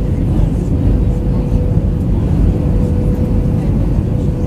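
Airbus A319-112 cabin noise heard from a passenger seat: a steady, loud rumble of the CFM56 engines and the airframe, with a thin steady hum running through it.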